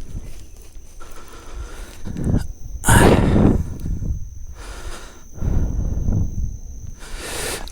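Wind buffeting the microphone in repeated gusts, each a short rush of noise that swells and fades, about five times.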